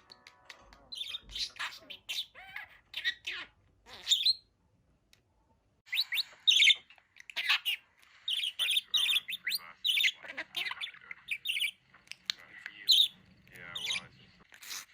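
Pet budgerigar chirping and chattering in rapid strings of short, high calls, with a brief pause about four seconds in.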